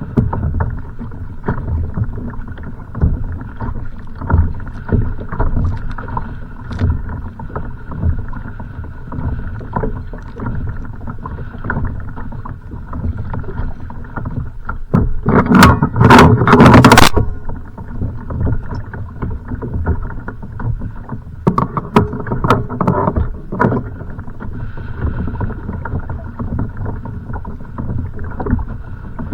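Kayak on choppy water in strong wind: a constant rough wash of water and wind with frequent small knocks and slaps against the hull. About halfway through, a louder splash or bang lasting a second or two stands out, with a few smaller ones a few seconds later.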